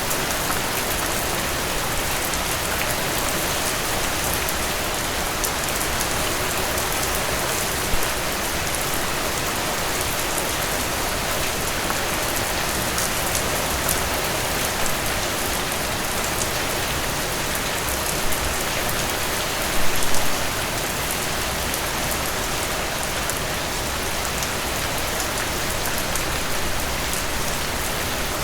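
Steady rain falling and pattering on a surface, an even hiss with individual drops ticking through it and a few louder drops or splashes now and then.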